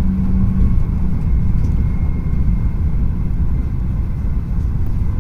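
Tohoku Shinkansen train running at speed, heard from inside the passenger cabin as a steady low rumble. A faint thin whine rises above it for a moment about two seconds in.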